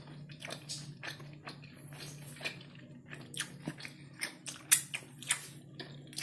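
Close-up mouth sounds of chewing soft, chewy kerupuk basah, the wet fish cracker of West Kalimantan: a run of short wet smacks and clicks, the loudest a little under five seconds in, over a steady low hum.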